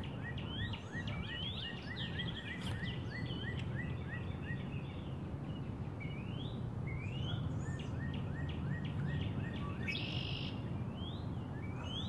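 Birds chirping in a steady stream of short, mostly rising notes repeated several times a second, over a steady low outdoor background noise.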